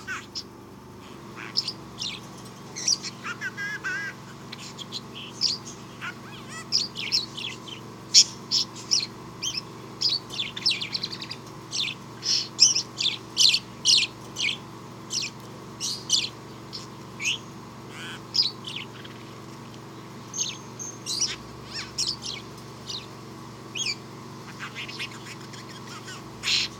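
Budgerigar chirping: a long run of short, high chirps coming in quick clusters, with a faint steady hum underneath.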